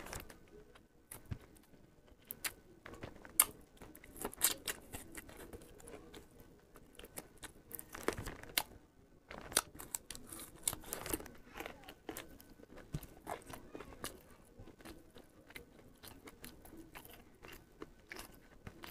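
Close-miked eating: a man chewing and biting into mouthfuls of rice and roast chicken, with irregular crunches and clicks throughout.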